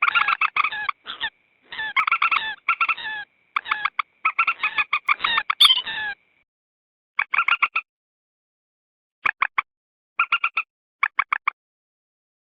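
Common moorhen calling: rapid runs of short, clucking notes, packed close together for about the first six seconds, then coming in shorter separate bursts of four or five notes.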